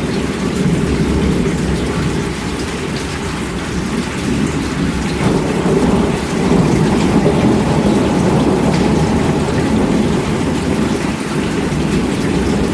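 Steady heavy rainfall with a deep, rolling thunder rumble underneath, swelling slightly about halfway through.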